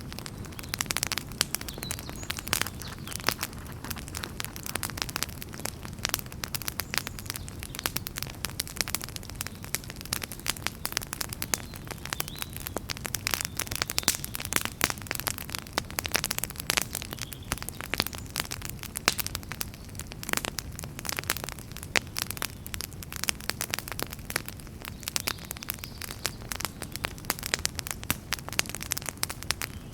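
Wood fire burning in a fireplace, crackling and popping constantly with many sharp irregular snaps over a low steady rumble of the flames.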